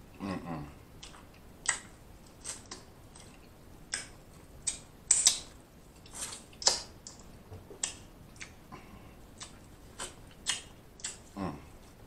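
Close-up biting and chewing of corn on the cob, heard as a dozen or so short, sharp crunches at irregular intervals. A low falling 'mm' comes from the eater just after the start and again near the end.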